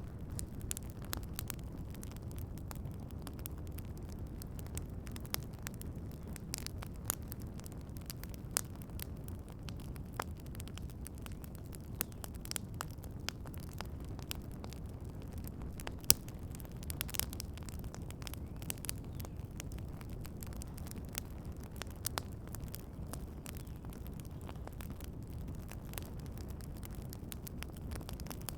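Wood campfire crackling, with frequent sharp pops and snaps over a steady low rumble; one pop about halfway through is louder than the rest.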